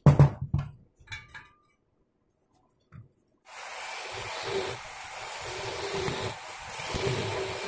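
A few short knocks at the start, then from about three and a half seconds in a steady rasping hiss of a tool working metal.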